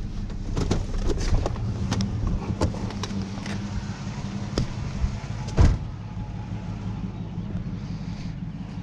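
Vehicle engine idling steadily, with a run of sharp metal knocks and clanks from scrap, likely a grill, being handled and loaded. The loudest clank comes about five and a half seconds in.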